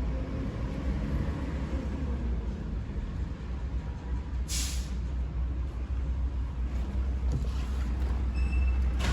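Maruti Suzuki Ertiga's engine running with a steady low rumble. A brief hiss cuts in about four and a half seconds in.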